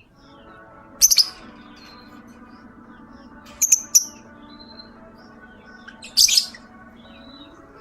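Young lovebird in breeding condition giving sharp, high-pitched chirps in three short bursts: about a second in, a quick cluster near the middle, and again near the end. A steady background of music-like tones runs beneath.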